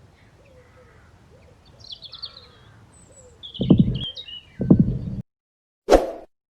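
Small birds chirping and twittering, joined about halfway through by two heavy low thumps about a second apart. A short loud noisy burst follows near the end.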